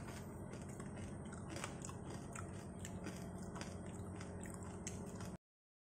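A person chewing crunchy roasted pork belly crackling (lechon liempo skin): small irregular crunches close to the microphone over a steady low hum. All sound cuts off abruptly near the end.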